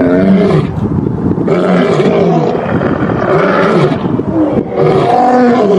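Lion roaring: several drawn-out, deep calls in a row, each rising and falling in pitch.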